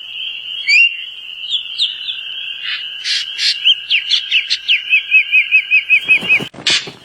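Small birds calling: short rising whistled notes over a steady high-pitched tone, then a quick run of about ten repeated chirps. Two brief noisy bursts break in, one about three seconds in and one near the end.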